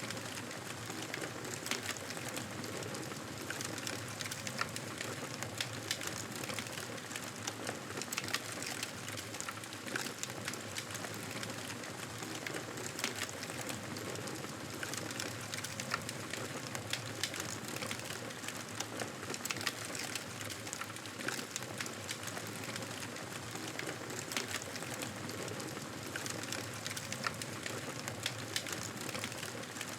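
Fireplace crackling: frequent small irregular pops and snaps over a steady hiss.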